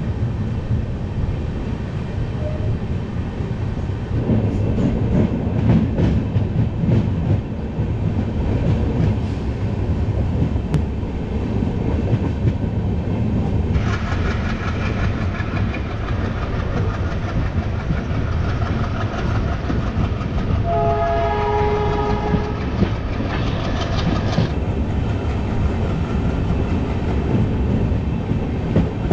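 Diesel-hauled passenger train running, with steady rumble and clatter of the wheels on the rails. From about halfway a locomotive horn sounds for around ten seconds, dropping to a lower-pitched blast near its end.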